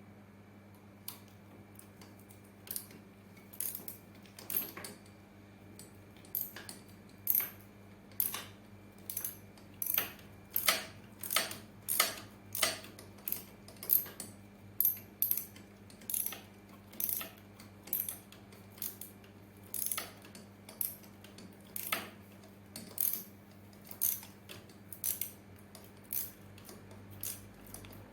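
Metal hand tools clinking in a long series of short, sharp clicks, about one to two a second, over a steady low hum.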